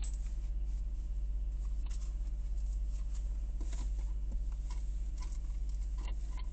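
A steady low mechanical hum, with light scattered clicks and rustling over it.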